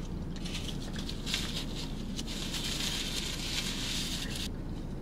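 Close-up eating sounds: chewing of fried food, with small clicks and crackles and a denser crackly crunch from about two seconds in that stops suddenly about half a second before the end. A steady low hum runs underneath.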